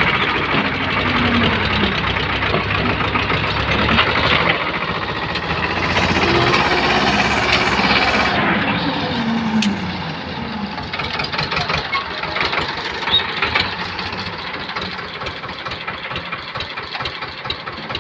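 Tractor engine running under load, its pitch rising and falling as it revs up and eases off several times. The sound gets somewhat quieter about halfway through.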